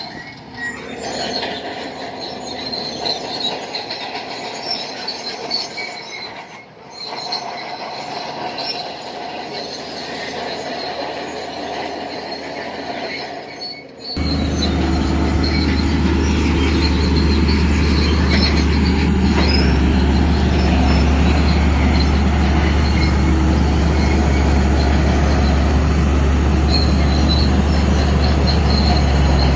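Crawler bulldozer's steel tracks squealing and clanking as it moves. About halfway through, a much louder low engine drone comes in and holds steady.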